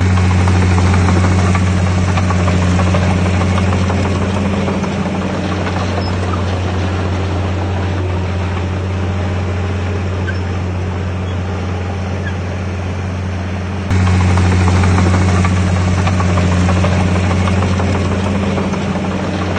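Heavy earthmoving machinery's diesel engine running steadily under load, a loud low drone that jumps up in loudness abruptly about fourteen seconds in.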